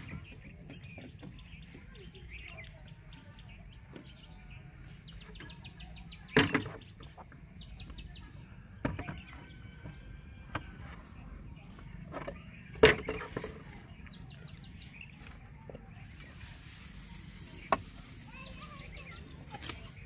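Birds chirping and singing in quick high trills, over a steady low rumble. A few sharp knocks cut through, the two loudest about six and thirteen seconds in.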